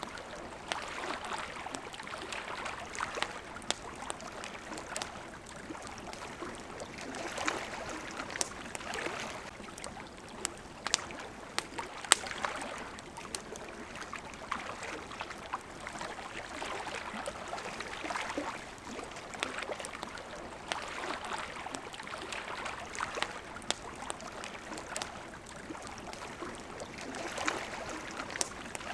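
Small waves lapping at the shore in gentle swells every couple of seconds, with a campfire crackling and popping throughout; one pop about twelve seconds in is the loudest.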